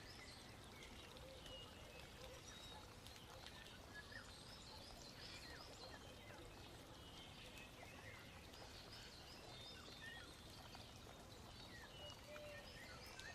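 Near silence, with faint bird chirps and short twittering calls in a quiet background hiss.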